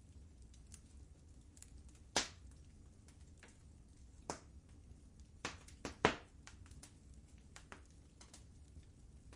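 Wood fire crackling in a fireplace: irregular sharp pops and snaps over a low steady rumble of burning, with the loudest pops about two seconds in and about six seconds in.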